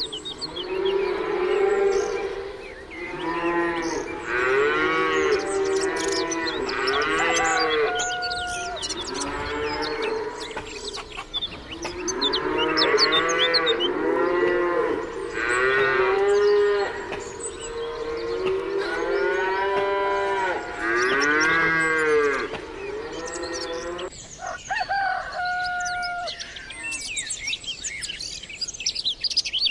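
Cattle mooing, one call after another and some overlapping, each rising and falling in pitch, through most of the stretch. Near the end the calls stop and small birds chirp.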